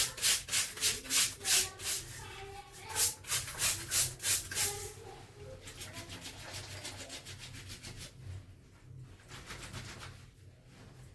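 Wet clothes being scrubbed by hand, in quick rasping strokes about two or three a second. About halfway through the strokes give way to softer, steadier rubbing.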